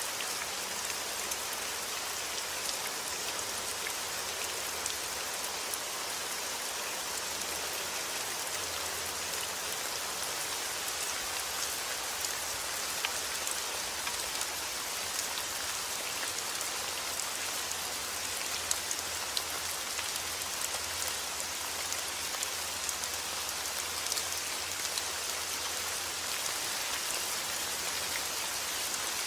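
Heavy rain falling outdoors: a steady hiss of rainfall with the sharp taps of individual drops striking surfaces scattered through it.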